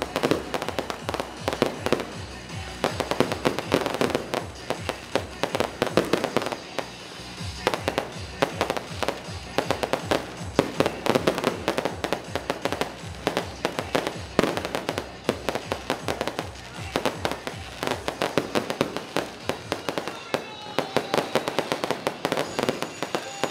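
Aerial fireworks shells from an electronically fired display bursting in rapid, unbroken succession, many bangs a second, mixed with crackling.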